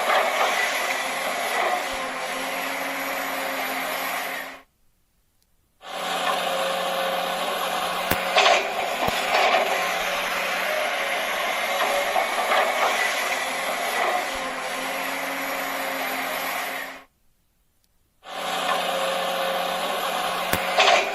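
A small motor whirring steadily with a low hum and a few clicks, cut off twice by about a second of dead silence.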